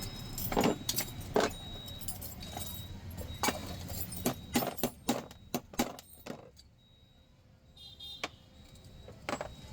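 Metal clinks and knocks from pressure cooker parts being handled: a dozen or so sharp clicks in the first six seconds, a quiet pause, then two more near the end.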